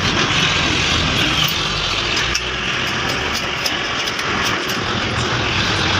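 Freshly restored 70 cc motorcycle's single-cylinder engine running steadily after being started, with a rapid ticking over a steady mechanical noise.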